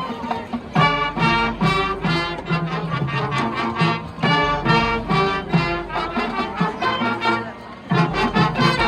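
High school marching band playing, brass over percussion, in loud punctuated accents with a short quieter passage before a full-band hit near the end.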